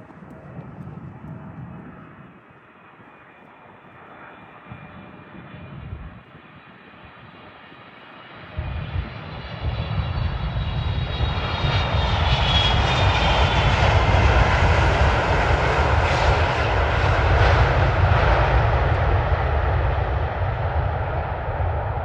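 Boeing 777-300ER's twin GE90-115B turbofans on landing approach: faint at first, then growing loud as the airliner passes close, with a high whine that slides down in pitch near the middle before the noise slowly fades. A sudden low rumble from about a third of the way in is gusty wind on the microphone.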